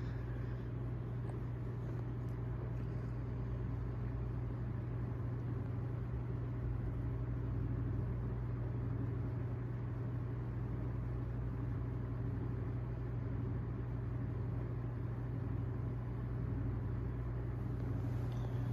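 Antique Mathes Cooler Model 543 wooden box fan running, its motor giving a constant low hum under the steady rush of air from the blades.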